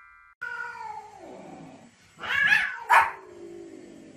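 A cat yowling: a long call that falls steadily in pitch, then a louder cry about two seconds in. A short, sharp bark from a small dog follows about three seconds in.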